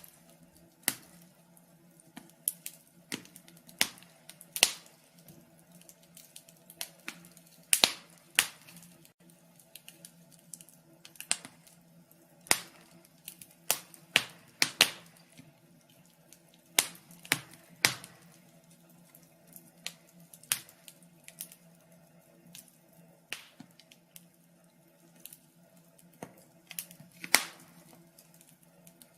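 Wood fire crackling in a fireplace: irregular sharp pops and snaps, sometimes several close together and sometimes a second or more apart, over a faint steady low hum.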